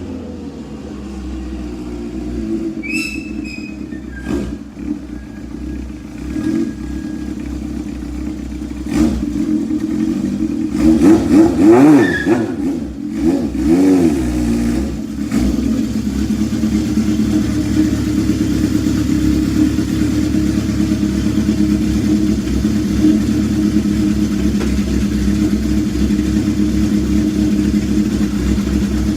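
1974 Honda CB750K's air-cooled inline-four running through a 4-into-1 exhaust with the baffle removed and a DK Customs Thunder Torque insert, warming up after a cold start. It idles steadily, is revved in three short blips about ten to fifteen seconds in, then settles back to idle.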